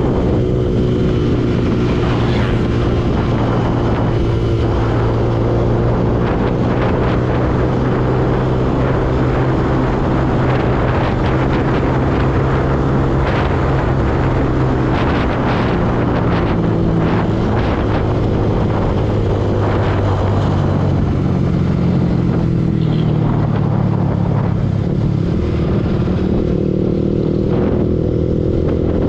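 Yamaha R15 V2 motorcycle's single-cylinder engine running steadily while riding. The engine note eases lower a little past two-thirds through and climbs again near the end.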